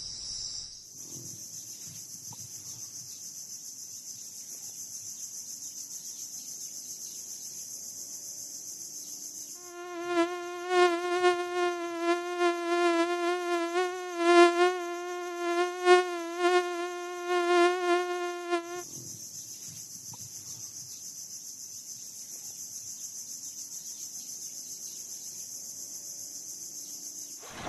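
Insect sounds. A high, continuous insect trill is broken for about nine seconds in the middle by a flying insect's buzz, whose steady droning pitch wavers and swells, before the high trill returns.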